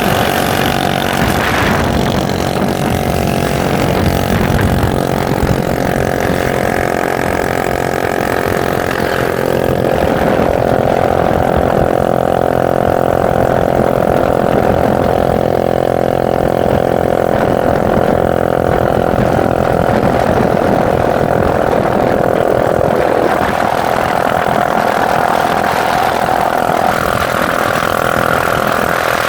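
Motorcycle engine running steadily while the bike is ridden, its note shifting about ten seconds in.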